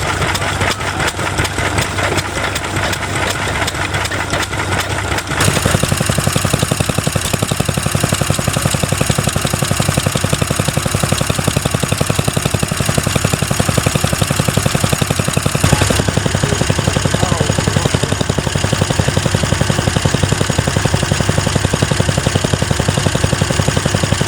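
Vintage stationary engines running with a steady, even beat, one after another, the sound changing abruptly about five seconds in and again about sixteen seconds in.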